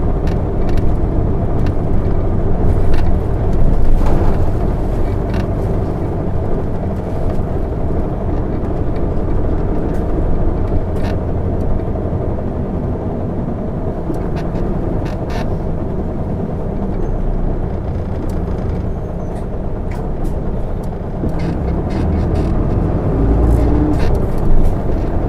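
Isuzu Erga city bus (PKG-LV234N2) heard from inside the cabin under way: its six-cylinder diesel engine running steadily, with scattered light clicks and rattles.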